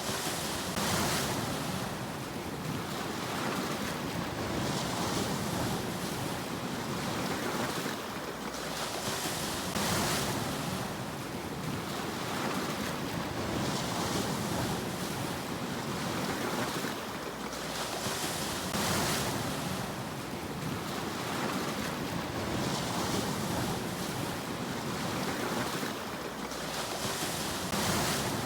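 Sea waves washing in: a steady rush of surf that swells about every four to five seconds as each wave breaks.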